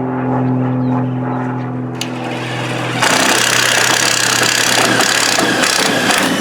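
Power drill with a 7/16-inch wood bit: the motor spins with a steady hum, then about three seconds in the bit bites into the wood and a loud, rough cutting noise takes over as it bores the hole.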